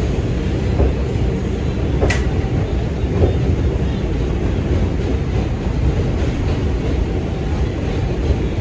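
Steady low rumble inside a New York City 2 train subway car, with one sharp click about two seconds in.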